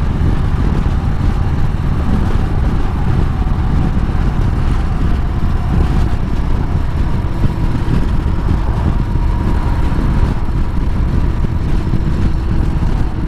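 Harley-Davidson V-twin motorcycle being ridden at a steady pace: constant engine and road noise under a heavy low rumble of wind on the rider's microphone.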